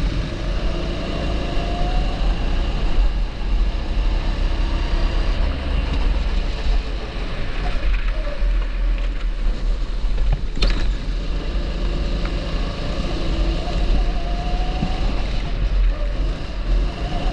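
270cc kart engine running hard on track, its pitch rising and falling repeatedly as it revs up out of corners and drops off into them. A single sharp click is heard about ten seconds in.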